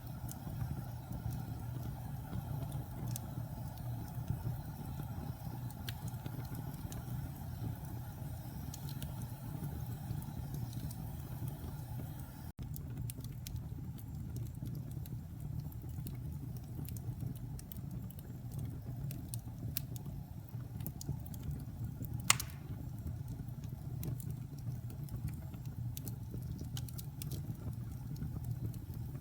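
Wood fire burning in a fireplace: a steady low rumble with scattered faint crackles and one sharp, loud pop about three-quarters of the way through.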